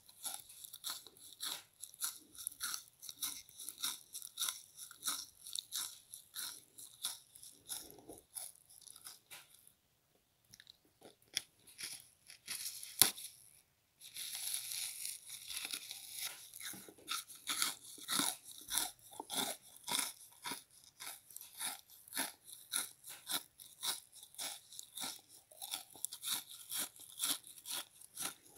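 A person chewing a frozen bath sponge close to the microphone: a rhythmic run of crunches, a few a second. Near the middle the crunching stops for a few seconds, with one sharp click in the pause, then starts again.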